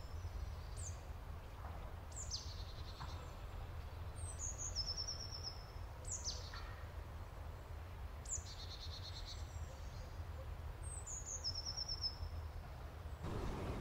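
Small songbirds singing high, thin phrases, each a quick run of falling notes ending in a short trill, repeated every two seconds or so and stopping near the end, over a low rumble.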